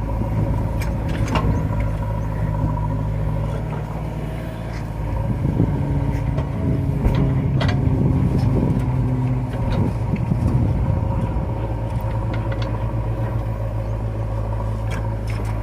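JCB 3DX backhoe loader's diesel engine running steadily. Its note rises and wavers for a few seconds in the middle, then settles back. A few brief sharp knocks sound over it.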